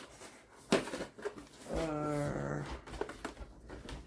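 A dog giving a low drawn-out growl or grumble for about a second, midway through, preceded by a sharp knock.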